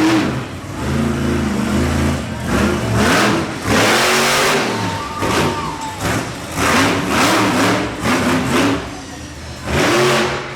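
Monster truck engine revved hard again and again, its pitch rising and falling in repeated bursts about every second.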